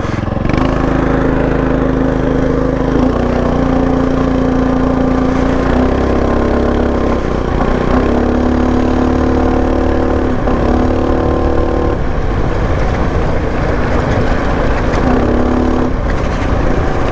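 Predator 224 single-cylinder four-stroke engine on a mini bike running under way, its note stepping up and down several times as the throttle changes.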